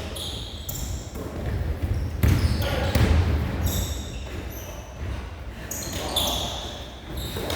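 Basketball game on an indoor court: the ball bouncing on the floor, with scattered knocks and short high squeaks, and a cluster of heavier thuds a couple of seconds in.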